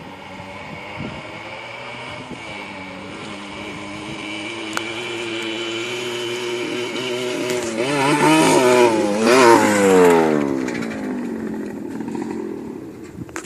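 Dirt bike engine under throttle, growing louder as it comes closer and revving with a wavering pitch at its loudest, then dropping sharply in pitch and fading away.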